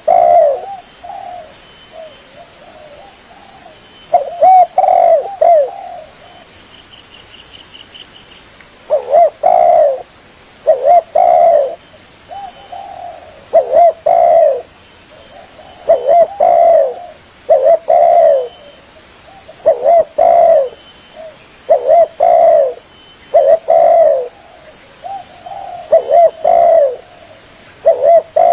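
Spotted dove (tekukur) cooing, loud and close: after a pause of a few seconds, its coo phrases repeat about once every two seconds.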